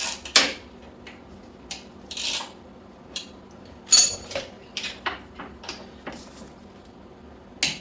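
Torque wrench set to 25 foot-pounds being worked onto a nut: a series of sharp, irregular metal clicks and knocks, the loudest about four seconds in, with a short scrape just after two seconds.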